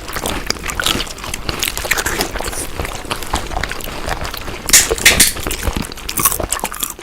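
Chewing and biting food, heard close up: a dense run of crunchy, wet clicks and crackles, with a louder crunch about five seconds in.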